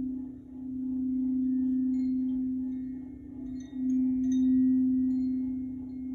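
Quartz crystal singing bowl sounding one steady low tone. Its loudness swells and fades in slow waves a few seconds apart.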